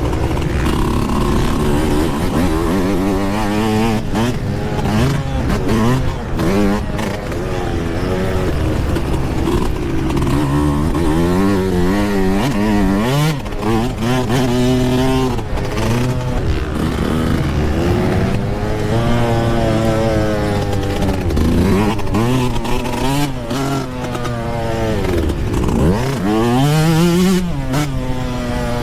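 Yamaha YZ125 two-stroke dirt bike engine being ridden hard, the revs repeatedly rising and falling as the throttle opens and closes. Near the end the revs drop deeply and climb sharply back up.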